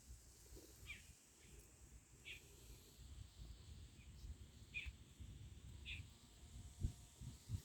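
A bird calling faintly outdoors: short high chirps, each on its own, spaced a second or two apart, over a low rumble.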